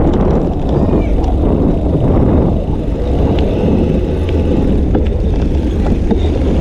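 Wind rushing over an action camera's microphone while cycling, a loud, steady low rumble, with a few faint ticks.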